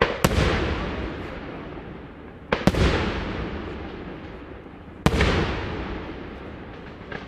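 Daytime aerial firework shells bursting in loud bangs, three in turn about two and a half seconds apart; the first two are quick double bangs. Each bang echoes and fades away over the next couple of seconds.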